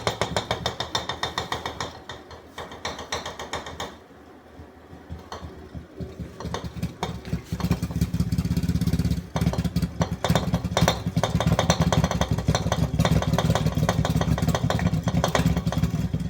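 Refrigerator compressor driven by a BLDC motor starting up in open-loop control, running with a rapid rattling vibration typical of its rough open-loop start. It drops quieter a couple of seconds in, then builds back up and runs steadily louder from about halfway on.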